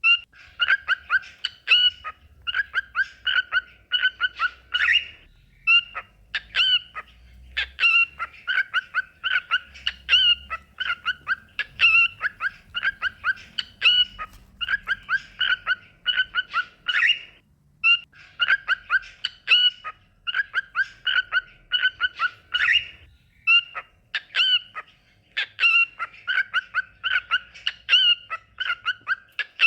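Cockatiel song: fast runs of short, rapidly repeated whistled chirps, broken by brief pauses every few seconds.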